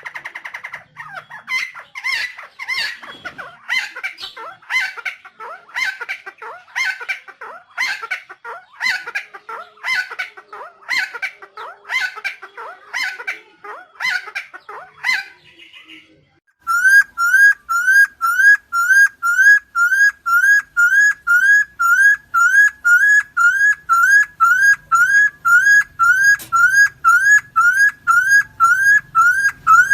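Helmeted friarbird (cucak timor) giving a run of loud, harsh, repeated calls, about one every two-thirds of a second. About sixteen seconds in, this cuts off abruptly and a steady, rapidly repeated rising whistle note takes over at about two a second.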